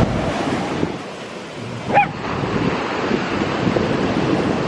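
Ocean surf and wind buffeting the microphone, with a single short high-pitched yip from a labradoodle puppy about two seconds in.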